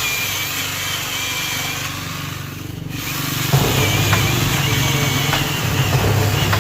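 Angle grinder fitted with a chainsaw adaptor running, a steady motor drone that gets suddenly louder about three and a half seconds in.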